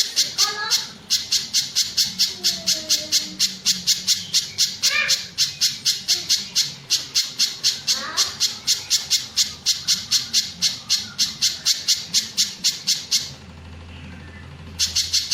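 Spiderhunter (pijantung) calling a fast, even series of sharp high notes, about five a second. The series stops about 13 seconds in and starts again near the end.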